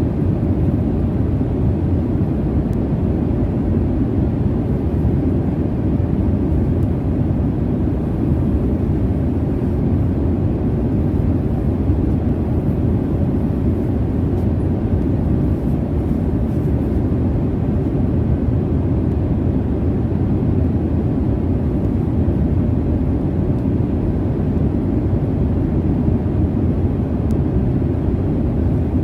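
Airliner cabin noise in flight: the steady, low rumbling drone of jet engines and airflow, unchanging throughout.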